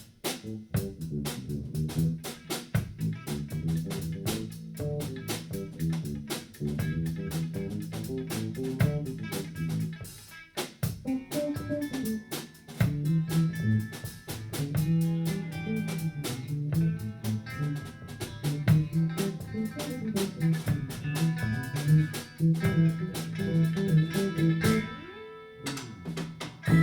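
A rock and blues band playing an instrumental funk passage: guitar and a busy bass line over a drum kit. The drums drop out for a moment near the end, then come back in.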